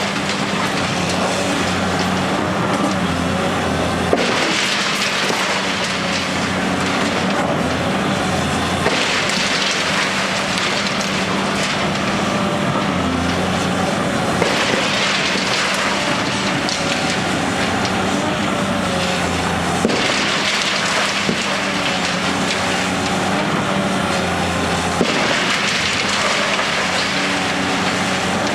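A crane's diesel engine runs steadily while a wrecking ball strikes concrete about every five seconds. Each hit is a sharp knock followed by a few seconds of crackling, crumbling rubble.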